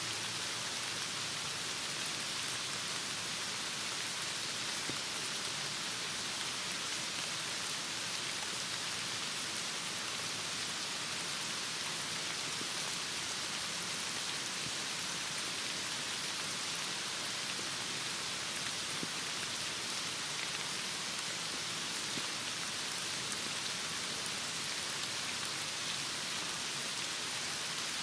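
Heavy rain falling steadily: an even hiss of rain.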